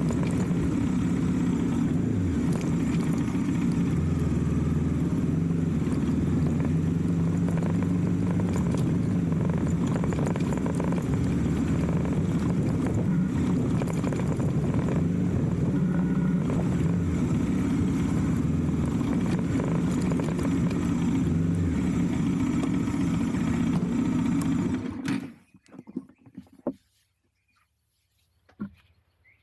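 Motorcycle engine running steadily under way, its pitch shifting a little with engine speed. About 25 seconds in the sound cuts off abruptly, leaving near quiet with a few faint clicks.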